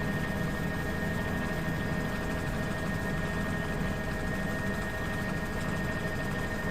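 Steady mechanical engine drone with a low rumble and a constant high whine, unchanging throughout.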